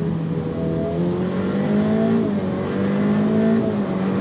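Ferrari F8 Tributo's twin-turbo V8 pulling hard under acceleration, heard from inside the cabin: the engine note climbs, drops back at an upshift about two seconds in, climbs again and drops near the end.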